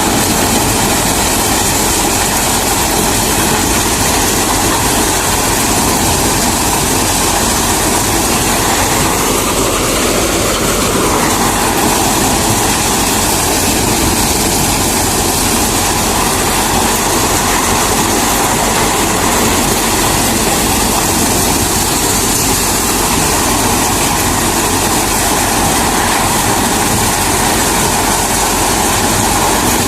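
Reinforce P-335 maize thresher running continuously under load, a loud steady mechanical roar with a brief rise and fall in pitch about ten seconds in.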